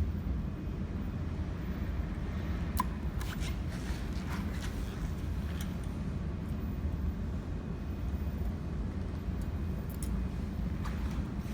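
Steady low electrical hum, with a few light clicks and taps scattered through it, mostly a few seconds in and again near the end.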